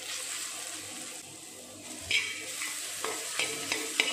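Coarse-ground coconut-and-onion masala sizzling in hot oil in an aluminium pot, stirred with a metal spoon. From about halfway through, the spoon knocks and scrapes against the pot several times, and the pot rings briefly after some of the knocks.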